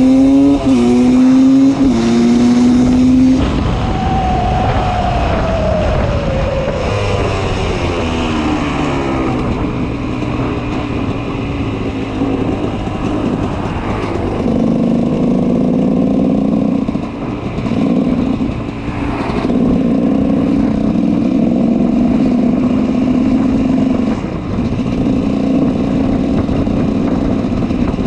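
GasGas 300 two-stroke motorcycle engine with an FMF Powercore 2 exhaust, revving up in short rising steps for the first few seconds. Its pitch then falls away in one long sweep, and later it runs at a fairly steady speed with a few brief drops in pitch.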